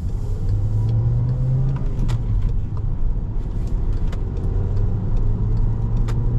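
Cabin sound of a 2017 Volkswagen Jetta SE with a manual gearbox under way: a steady low engine hum whose pitch climbs and eases as the car accelerates, with a couple of sharp clicks. The engine is quiet in the cabin.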